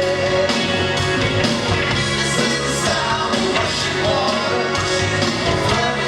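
Live rock band playing loud and full, driven by a stepping bass line, with no lead vocal line.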